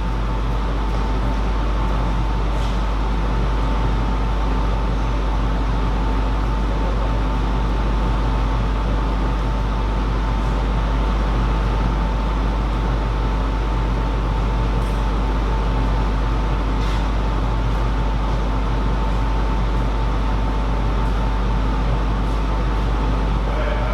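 Steady low rumble and hiss of background hum with a constant thin tone, with no ball strikes; a few faint clicks are scattered through it.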